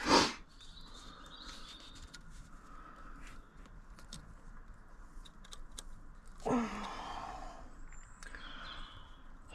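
A sharp exhale at the start, then faint scattered clicks and taps of hands and tools working at plastic trim clips on a car. A short breathy grunt comes about six and a half seconds in, and a faint bird chirp near the end.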